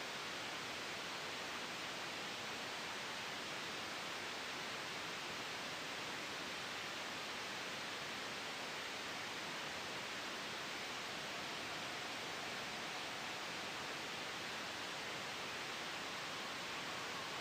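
Steady, soft sleep white noise: an even hiss with no change in level, made to mask background noise.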